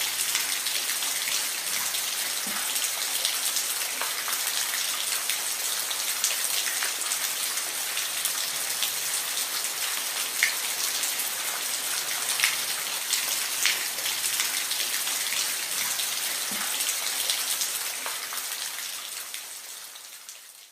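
Steady rainfall, an even hiss with individual drops ticking sharply through it, fading out over the last couple of seconds.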